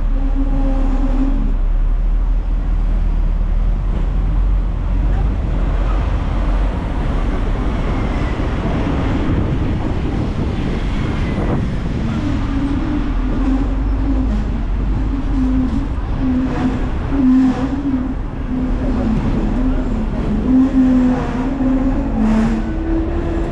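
Hong Kong double-decker tram running, heard on board: a steady low rumble of wheels on rails with a wavering electric motor hum. The hum fades out for several seconds and comes back, and a few brief knocks sound near the end.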